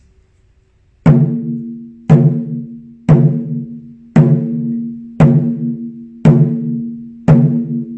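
Chu-daiko, a medium-size Japanese taiko drum, struck seven times at an even pace of about one stroke a second, starting about a second in. Each stroke is a sharp hit followed by a deep ringing boom that dies away, a really big sound.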